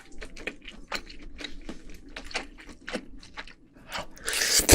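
Close-miked chewing of food in a mukbang: a run of small wet mouth clicks, with a louder, noisier bite or crunch about four seconds in.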